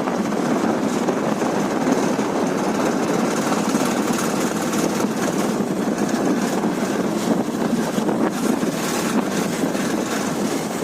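Karizma R motorcycle being ridden: the engine's steady running mixed with wind rushing over the microphone.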